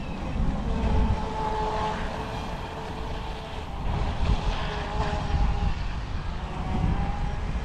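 Pro Boat BlackJack 26 brushless RC boat running on the water, its electric motor giving a high whine that shifts in pitch and fades and returns as the throttle changes. Wind buffets the microphone underneath.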